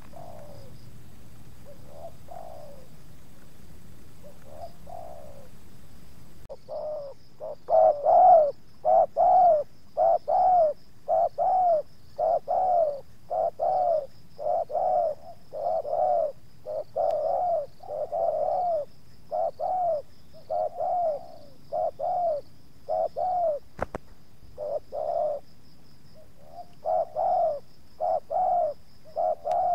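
Spotted doves cooing. A few faint coos come first, then from about six seconds in a dove close by coos loudly in a long run of repeated notes, a little more than one a second, with a brief pause near the end.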